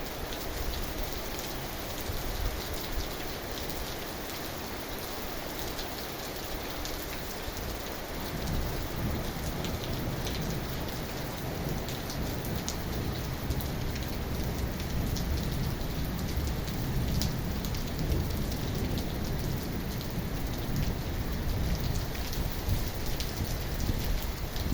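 Steady rain falling, an even hiss flecked with the ticks of single drops. About eight seconds in, a deeper low rumble sets in under the rain and stays.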